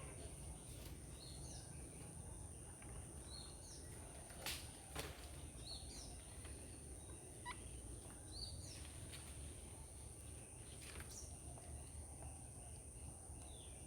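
Birds chirping in short, high calls scattered throughout, over a steady high-pitched whine. Two sharp, louder sounds come about four and a half and five seconds in.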